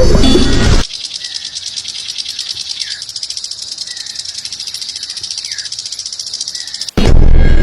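A high-pitched, rapidly pulsing buzzing trill from an animal, held steadily for about six seconds, with a few faint downward chirps under it. Loud, full sound cuts off about a second in and comes back near the end.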